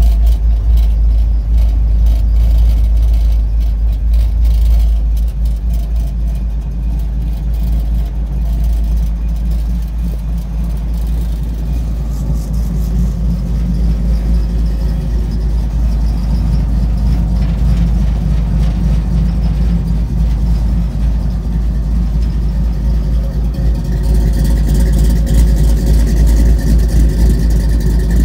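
5.3 LS V8 engine idling steadily, a low rumble that grows louder near the end as it is heard close to the exhaust.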